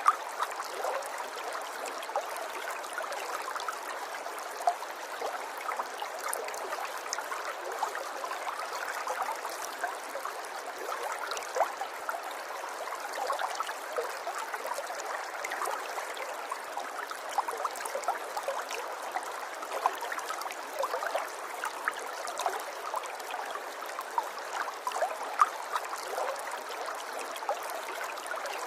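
River water flowing steadily over stones, a continuous babbling with many small splashes and gurgles scattered through it.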